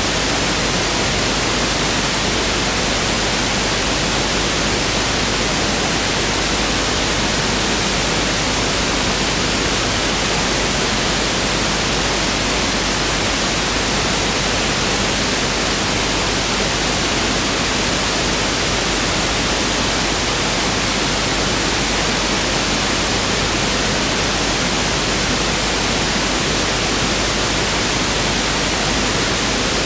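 Pink noise (1/f noise) test signal: a steady, even hiss that never changes.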